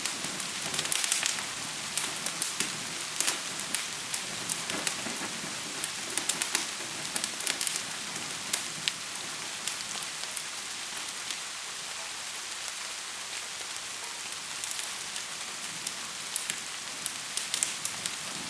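Steady hiss of gentle rain with sharp, irregular crackles and pops of a wood fire over it; the crackles come thickly in the first several seconds, thin out in the middle, and pick up again near the end.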